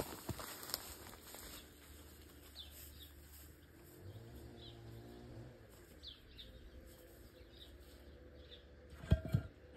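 Small birds chirping over and over, with two sharp knocks close together near the end.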